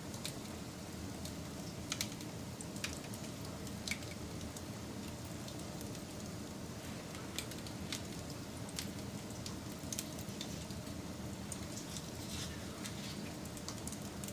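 Wood campfire burning: a steady hiss with irregular sharp crackles and pops from the burning wood.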